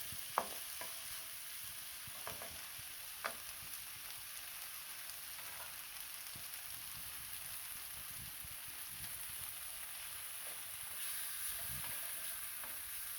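Onions and seasoning sizzling steadily in hot oil in a pot on high heat while being stirred, with a utensil clicking sharply against the pot about half a second in and again about three seconds in.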